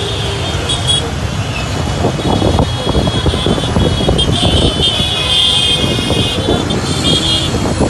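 Busy road traffic: a dense rumble of vehicle engines, with a high steady tone that is strongest in the second half.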